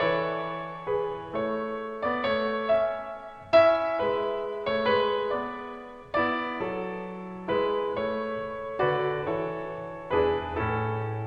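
Solo piano music: slow, gentle notes and chords, each struck and left to fade, about one a second.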